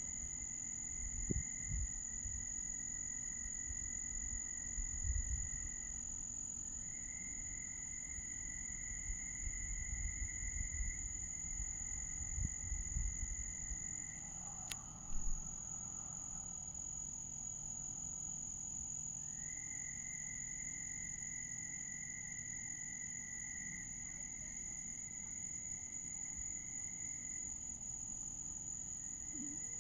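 Night chorus of frogs and insects: a steady high insect drone, with long trills lasting several seconds that start and stop twice. A few low rumbles come in the first half, and a single sharp click about halfway.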